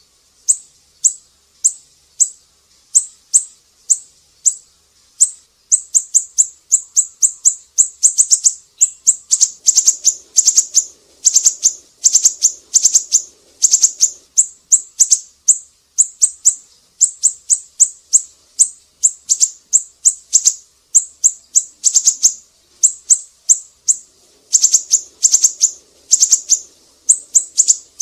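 Siri-siri bird singing vigorously: a steady string of short, sharp, high-pitched chirping notes, spaced out at first and then coming in fast rattling runs of several notes a second.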